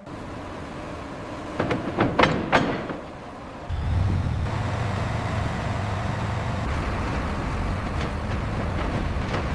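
A few sharp metallic knocks, then, about four seconds in, a heavy engine sets in suddenly and runs with a steady low pitch.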